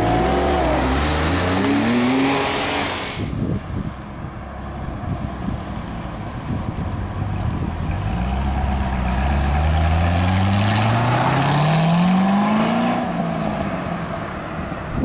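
A car engine revving up hard, cut off abruptly about three seconds in. Then a Chevrolet Corvette C6's V8 accelerates away, its engine note climbing steadily for about five seconds before dropping near the end.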